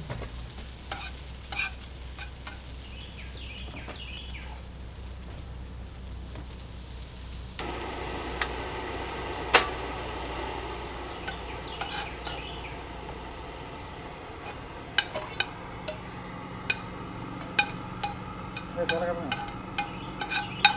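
Camp cooking: metal utensils clinking and scraping against a pan, with a steady hiss that starts suddenly about a third of the way in, like food beginning to sizzle on the heat. The clinks come thicker near the end.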